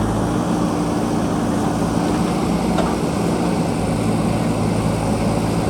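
JCB backhoe loader's diesel engine running steadily, with a constant low hum and a rough mechanical rumble.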